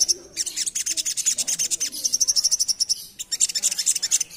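Spiderhunter singing a rapid, non-stop run of very fast high-pitched chipping notes, breaking off briefly about three seconds in.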